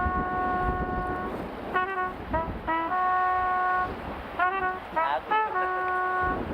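A horn sounding a tune-like series of notes at changing pitches, some held for about a second and some short, over the sound of surf and wind.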